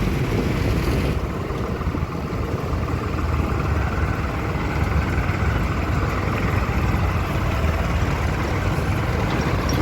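Tractor diesel engine running steadily, a low even engine sound, with the upper hiss dropping away about a second in.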